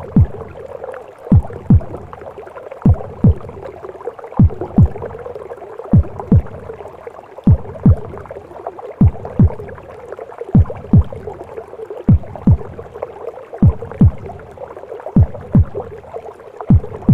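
A mother's heartbeat as heard in the womb: slow paired lub-dub thumps, about one pair every second and a half, over a steady whooshing womb sound.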